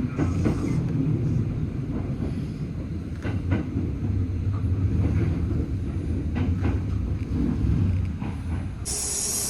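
Kintetsu electric train running on the rails: a steady low rumble with a few sharp clicks. A high hiss starts near the end.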